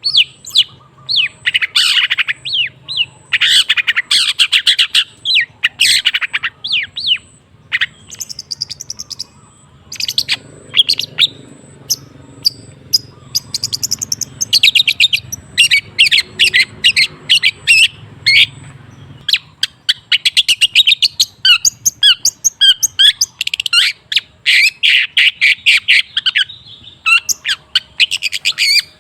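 Long-tailed shrike (cendet) singing in bursts of fast, scratchy chattering notes, with short pauses between phrases.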